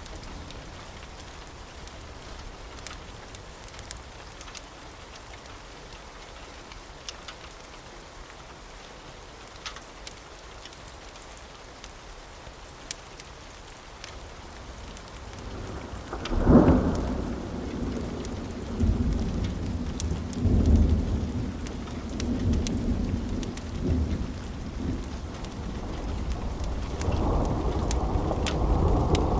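Steady rain hiss with scattered sharp crackles from a fireplace. About sixteen seconds in a thunderclap breaks, and rolling thunder rumbles in waves that swell again near the end.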